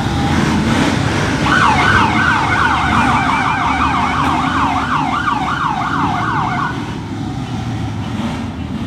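Police car siren in a fast yelp, sweeping up and down about three times a second. It starts about a second and a half in and cuts off after roughly five seconds, over a steady low rumble of vehicle engines.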